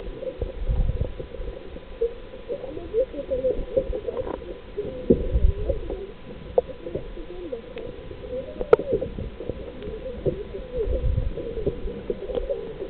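Low bird calls repeating throughout, mixed with a few deep rumbles and a single sharp click about nine seconds in.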